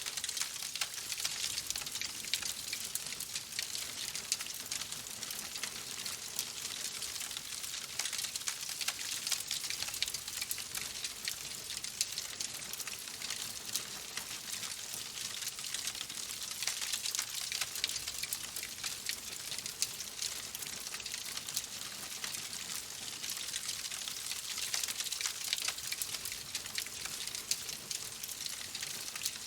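Wood fire crackling in a fireplace: a steady hiss with many small, quick pops and snaps, now denser, now sparser.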